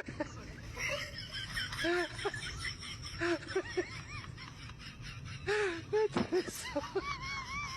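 Laughter in short repeated bursts. Near the end a wavering, whistle-like tone begins.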